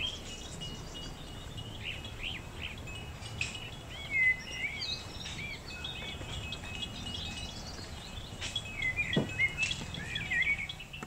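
Small birds chirping: a busy run of short, high calls that overlap and keep coming.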